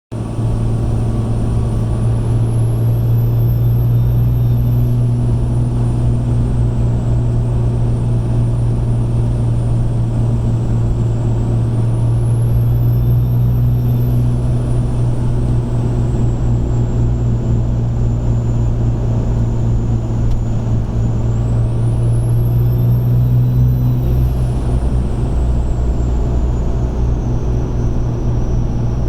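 2005 Ram 2500's 5.9 Cummins diesel running with a steady low drone while its stock turbocharger, heard through an open intake with the silencer ring removed, whistles high. Three times the whistle climbs in pitch as boost builds and then falls back, a turbo whine the owner likens to a supercharger; he finds no shaft play or oil leaks.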